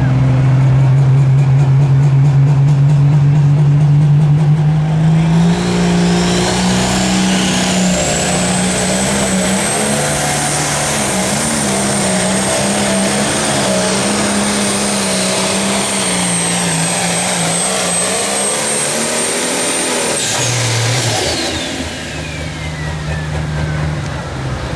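Turbocharged diesel Pro Stock pulling tractor under full load on a pull. The engine rises from a steady run about five seconds in, and the turbocharger's whine climbs to a high steady pitch and holds through the run. About twenty seconds in, the engine backs off and the turbo whine winds down.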